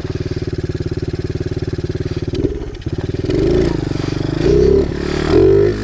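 A Chinese pit bike's small single-cylinder engine, on its stock exhaust, runs steadily at low revs. From about three seconds in, the throttle is blipped several times, and the note rises briefly with each blip.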